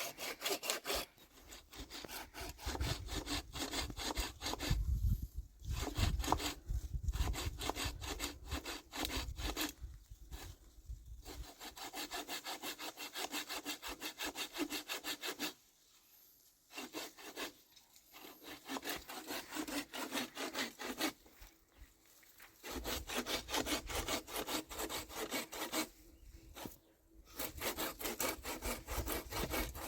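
Hand saw cutting through wood in quick, even back-and-forth strokes, stopping briefly several times and starting again.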